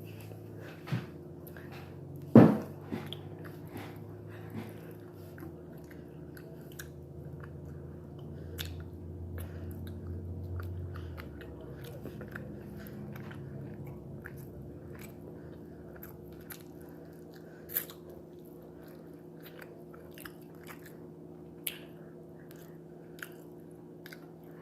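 Close-up chewing and biting of steak, wet mouth clicks scattered throughout, with one sharp knock about two and a half seconds in, over a steady low hum.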